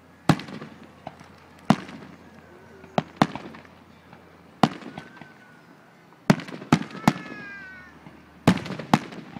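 Aerial firework shells bursting in a display: about eleven sharp bangs at irregular intervals, some in quick pairs, each trailing off in a short rumbling echo.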